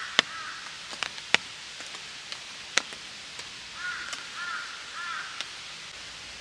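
Steady rain hiss with loud, sharp drops striking the tarp and umbrella overhead. A bird calls once at the start, then three short calls in a row about four seconds in.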